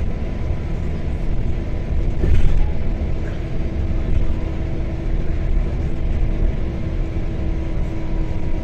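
Steady rumble of a moving motor vehicle, engine and road noise with a faint steady hum, swelling slightly about two seconds in.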